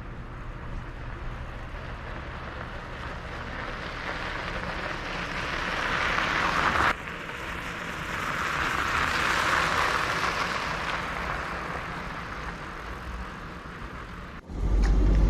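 Even road and tyre noise of a moving vehicle that swells up twice, broken by an abrupt cut about seven seconds in.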